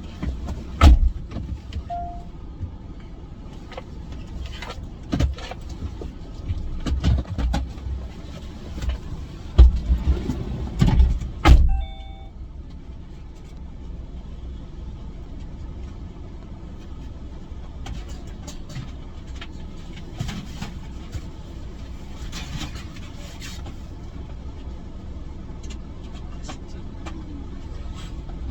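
A car's steady low rumble, with a run of thumps and knocks over the first dozen seconds. A short beep sounds about two seconds in, and a brief two-note tone near the twelve-second mark; after that the rumble carries on more evenly with a few faint clicks.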